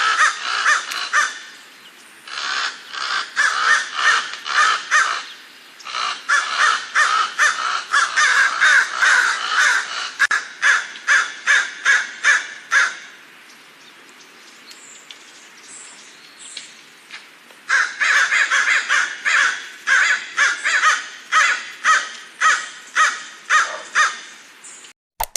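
Crows cawing in dense runs of short, harsh calls, several a second, with a quieter spell of fainter calls in the middle before the loud cawing resumes; the calls stop abruptly just before the end.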